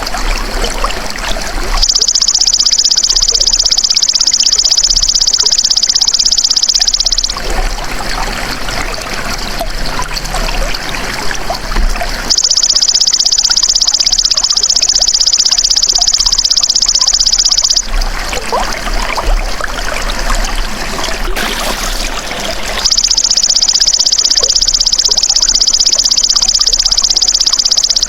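Belalang emas (golden grasshopper) calling in long, high, buzzing trills of about five seconds each, three times with gaps of about five seconds, over a steady trickle of running water.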